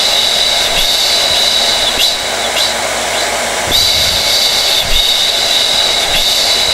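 Hair dryer running steadily: a constant rush of air with a thin, high-pitched whine over it.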